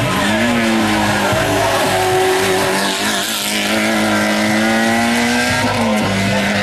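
Race car engine at high revs under hard acceleration. Its pitch holds and climbs, then dips sharply at gear changes near the start and again about six seconds in.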